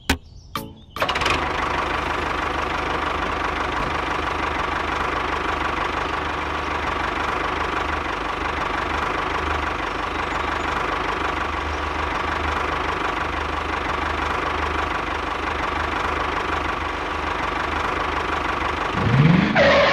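An engine running steadily, starting abruptly about a second in, with a short rising rev near the end.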